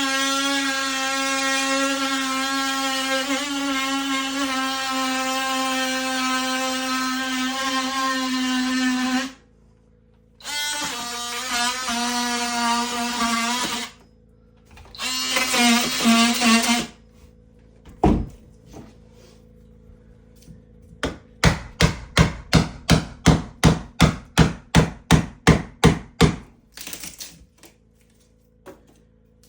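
Electric drill running at a steady whine for about nine seconds, then in two shorter bursts, followed by a single knock and a quick run of about fifteen even hammer blows.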